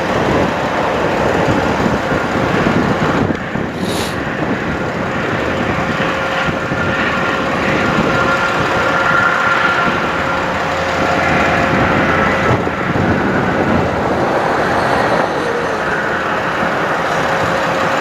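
Bucket truck's engine running steadily, with a faint steady whine over it, and a brief high-pitched blip about four seconds in.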